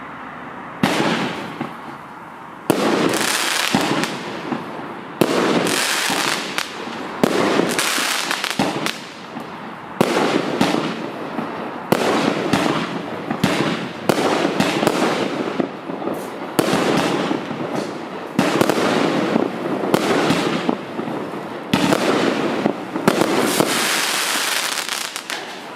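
Multi-shot consumer fireworks cake (FC2516 battery) firing shot after shot, a sharp launch bang roughly every one to two seconds, each followed by crackling and popping from the bursts.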